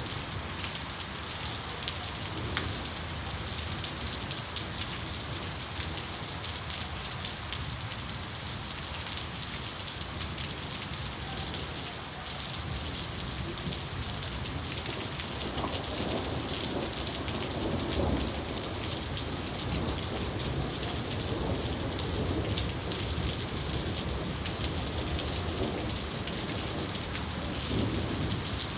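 Steady rain with the patter of individual drops, and thunder rumbling low from about halfway through, swelling several times before the end.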